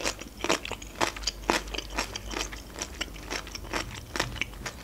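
Close-miked chewing of crisp food: irregular wet crunches and mouth clicks, a few each second, thinning out toward the end.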